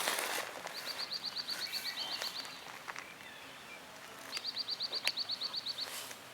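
A small songbird sings two high trills of rapid, evenly repeated notes, about ten a second, each trill lasting about a second and a half. There is a faint outdoor background and a few light clicks.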